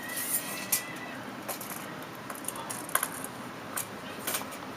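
Scattered light clicks and rattles of a tape measure being pulled out and held against a window frame, over a steady background hiss.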